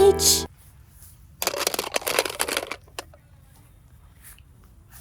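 Crackly crunching from a soft craft material being squeezed, lasting about a second and a half, followed by a single sharp click. A voice calls out the letter H at the start.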